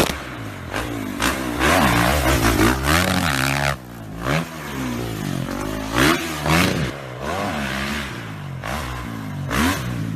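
Motocross bike engines revving, their pitch rising and falling over and over as the throttle is worked, with more than one bike heard at once and louder surges every few seconds.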